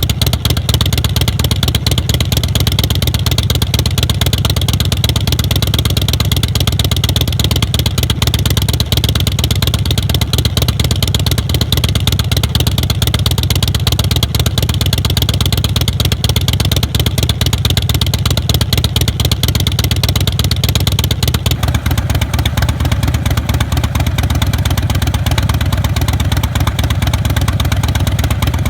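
A motorcycle's carbureted 117-cubic-inch S&S V-twin, on a 2005 Big Dog Softail chopper, running steadily with a deep, pulsing exhaust. Its tone shifts a little about 22 seconds in.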